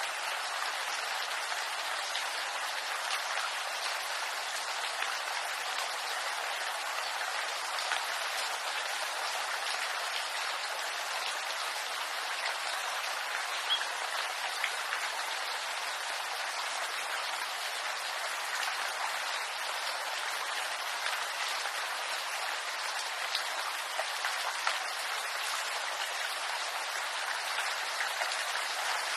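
Steady rain falling on bamboo leaves: a dense, even patter with individual drops ticking through it.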